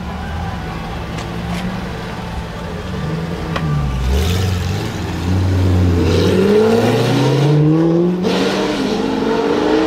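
Pagani Zonda roadster's V12 running low, then revving up in one long rising pull from about halfway through as the car accelerates away.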